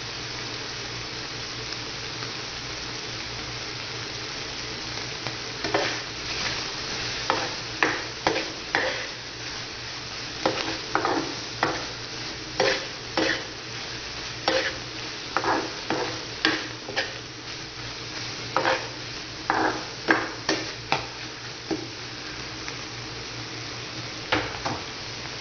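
Chopped pork intestines, tripe, liver and lung sizzling in hot oil in a frying pan as they fry until a little crispy. From about five seconds in, a spatula scrapes and clacks against the pan in quick, uneven strokes as the meat is stirred. The stirring stops a few seconds before the end, with two more strokes near the end.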